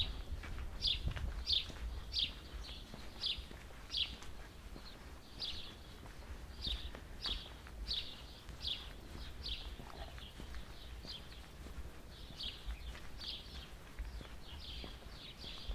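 A songbird singing a long series of short, high, down-slurred chirps, repeated about one and a half times a second with only brief breaks.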